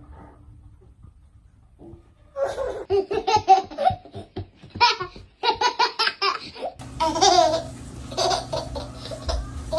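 A baby laughing in repeated short bursts of belly laughs, starting about two seconds in.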